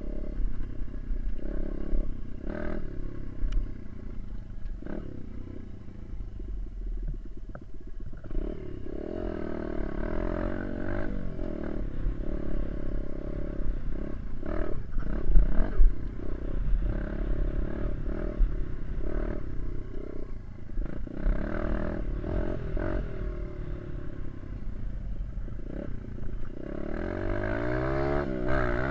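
Small dirt bike engine running while being ridden, its pitch rising and falling with the throttle, over wind buffeting the microphone, with a few sharp knocks.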